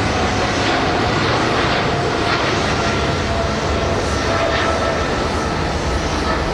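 Large jet airliner's engines at takeoff power: a loud, steady rushing noise with a faint steady whine.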